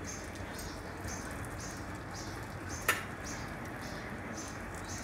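Bread and egg omelette frying in oil on a flat iron griddle over medium-low heat: a steady gentle sizzle with light crackling, and a single sharp click near the middle.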